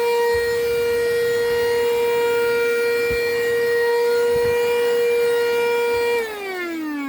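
Car vacuum cleaner's motor running with a steady whine, then winding down about six seconds in, its pitch falling steadily.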